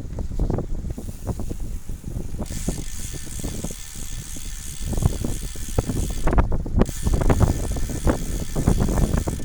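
Wind buffeting the microphone: an uneven low rumble in gusts, with a band of hiss rising over it from a few seconds in until a little past the middle.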